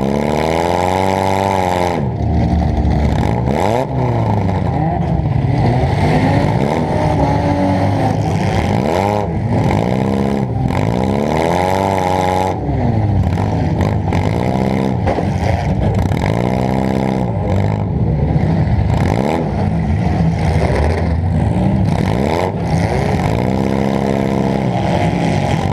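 Demolition derby car's engine heard from inside the car, revved hard again and again, its pitch rising and falling every second or two, with clatter over it.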